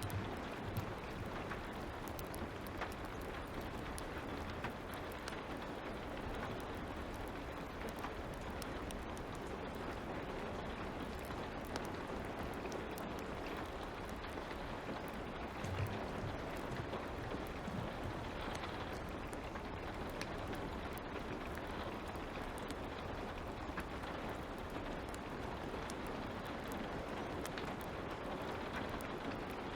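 Light rain falling with a steady hiss, mixed with the small scattered crackles of a wood fire.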